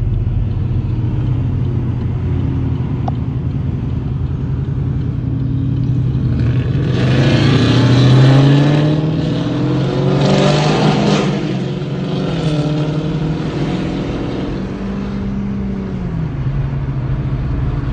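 Car engines on the road: a steady engine drone, with another car accelerating hard about seven seconds in, its engine pitch rising and then dropping away near the end.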